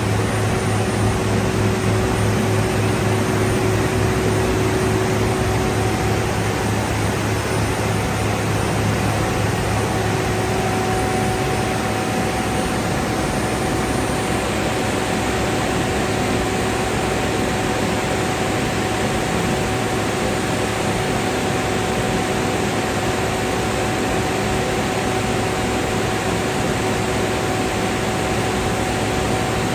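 Industrial machinery running steadily: a constant loud noise with a steady hum and a couple of faint steady tones underneath.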